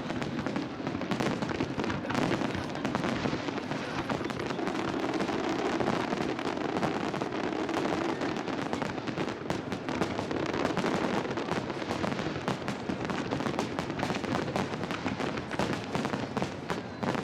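Fireworks display: a dense, unbroken crackle of many small bursts going off in quick succession.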